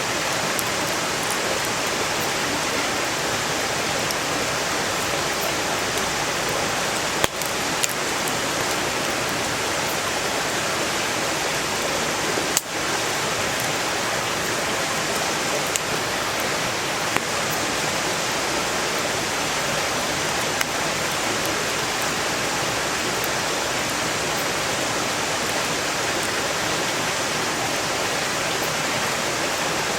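Valley stream rushing steadily, with a few sharp pops and crackles of burning firewood scattered through it, the strongest about 7 and 12 seconds in.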